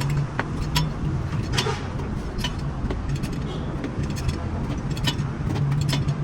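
A vehicle engine running steadily with a low hum, overlaid by scattered sharp clicks and knocks and a brief hiss about one and a half seconds in.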